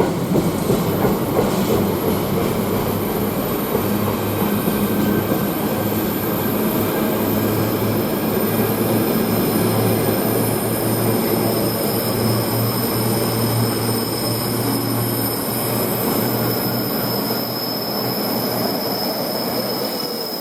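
A train passing through the station: wheels clicking over the rail joints at first, then a steady rolling rumble and hum with a thin high wheel squeal.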